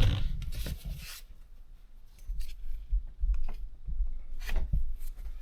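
A tube being worked off in the engine bay: rubbing and small plastic clicks, with irregular low thumps.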